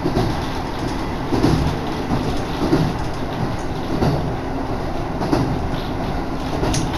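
Diesel railcar running at speed, heard from inside the carriage: a steady rumble with wind, and a regular wheel clatter over the rail joints about every second and a quarter.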